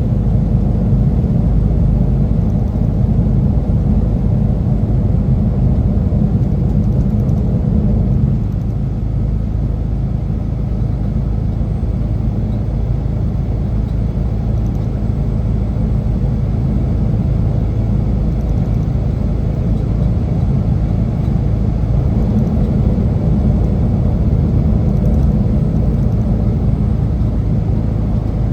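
Semi truck's diesel engine and road noise, a steady low drone.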